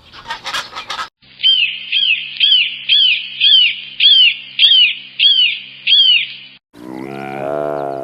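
A bird chirping over and over, about two short, high chirps a second for five seconds, over a faint steady hum. A lower, drawn-out animal call starts near the end.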